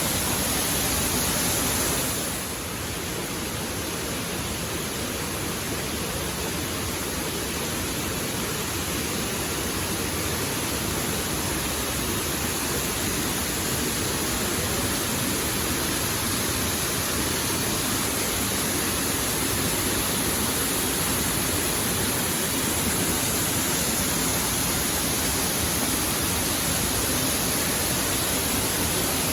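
Waterfall rushing: a steady, even hiss of falling water, briefly a little quieter about two seconds in.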